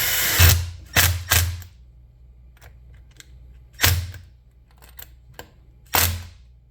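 Sharp, separate knocks of tools and metal parts being handled and fitted during A-arm suspension work: a brief rushing noise at the start, then three knocks in quick succession and two more spaced out near four and six seconds in.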